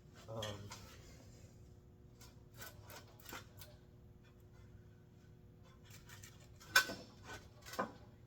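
Scattered metal clicks and clunks of a small engine being set down and shifted on its mounting plate, the two sharpest about a second apart near the end, over a faint steady hum.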